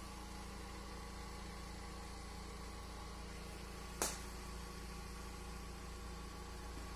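Car engine idling, a steady low drone, with one sharp click about four seconds in.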